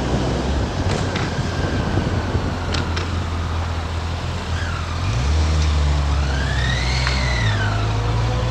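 Motorcycle ride: the engine runs under wind noise, its note stepping up about five seconds in. A high whine rises and falls twice in the second half.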